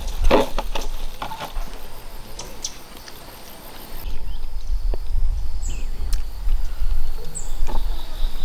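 Outdoor forest ambience: scattered knocks and rustles, then an abrupt change about four seconds in to a low rumble with a few short, high chirps.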